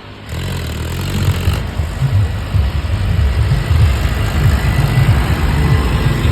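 Mahindra Arjun tractor's diesel engine running with a steady low rumble, starting just after the opening moment.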